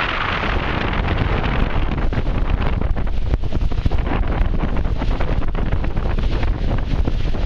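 Wind buffeting the microphone: a loud, continuous rumble that flutters unevenly, with brighter hiss in the first second.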